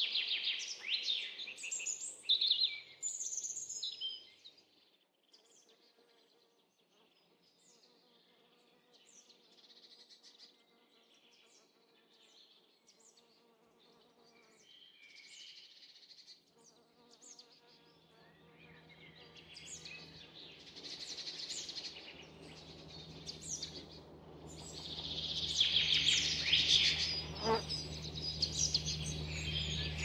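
Wild birds singing in a forest, with several chirping calls strongest in the first few seconds and again in the last third. From a little over halfway through, a low steady buzz joins underneath, like an insect hovering close.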